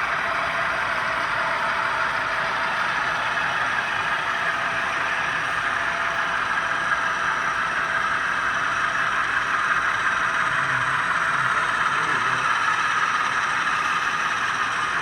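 Model train pulled by ten powered locomotives running steadily along the track: an even whirring and rolling noise from the motors and wheels.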